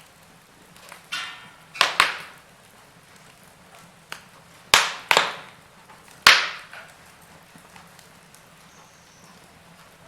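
Wood fire in a fireplace crackling: a run of sharp, irregular pops and snaps, each dying away quickly, the loudest about halfway through, over a faint background crackle.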